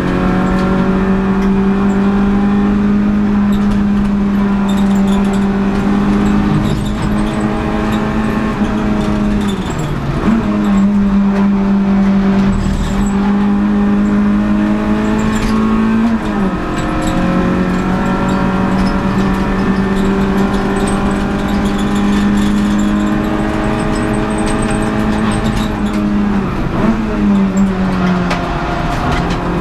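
Renault Clio Sport 182's 2.0-litre four-cylinder engine at racing revs, heard inside the stripped race car's cabin. Its note holds steady at high revs for long stretches. Three times it dips as the driver lifts and shifts down for a corner, then climbs back.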